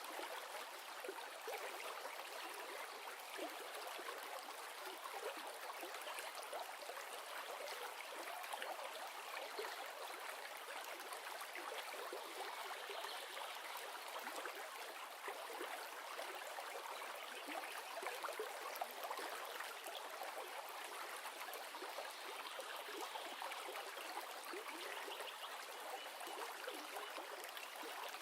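A river's flowing water: a steady rush with a fine, continuous trickle and gurgle.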